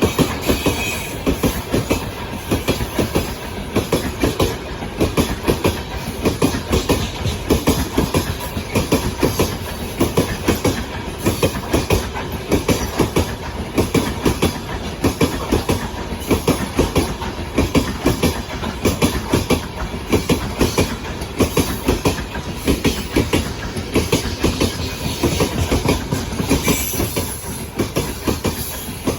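Freight train rolling past at speed, its wheels clattering steadily over the rail joints in a rapid, continuous run of knocks.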